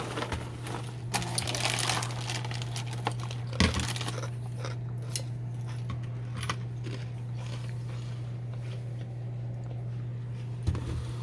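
Crunching and crinkling from dry Cinnamon Graham Toast Crunch cereal being eaten and handled, densest in the first four seconds, over a steady low hum.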